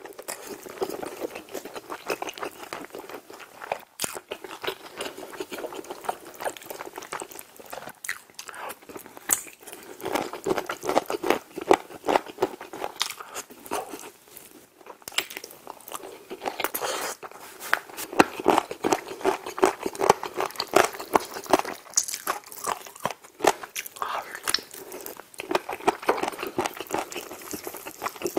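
Close-miked eating: a person biting, tearing and chewing smoked chicken leg meat in a creamy rosé sauce, with wet smacking and crunchy bites of the skin, a steady run of clicks and mouth noises.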